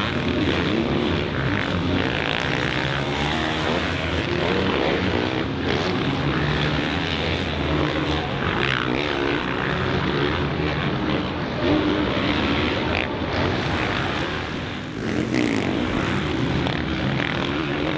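Motocross bike engine running hard, its pitch rising and falling as the throttle opens and closes, with a brief drop about fifteen seconds in.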